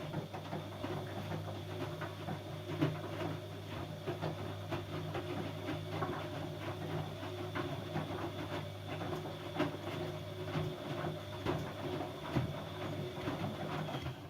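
Siemens Siwamat C10 washing machine running: a steady motor hum with many small knocks and clicks, cutting off abruptly near the end.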